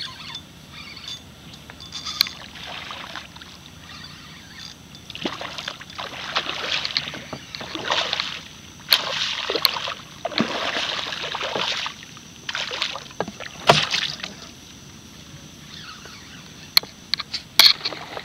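Water splashing and sloshing around a small boat in irregular bursts of a second or two, with a few sharp knocks near the end.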